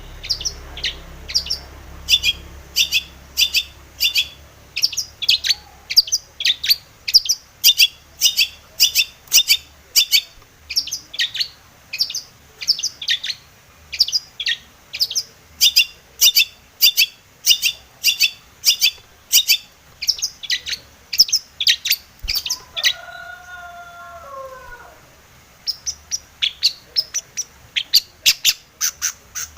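Long-tailed shrike (cendet) singing a fast series of sharp, high chattering notes, about three a second. Two thirds of the way through the notes pause and a lower, wavering call falling in pitch is heard before the chatter resumes.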